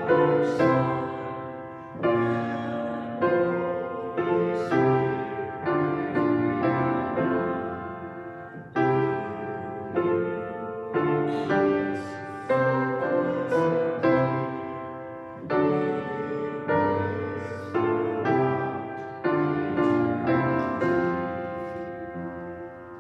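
Piano playing a hymn tune in full chords, each struck chord fading before the next, ending on a long chord that dies away near the end.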